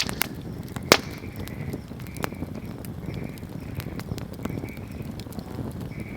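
Wood bonfire crackling over a low steady rumble, with sharp pops scattered through it; the loudest pop comes about a second in.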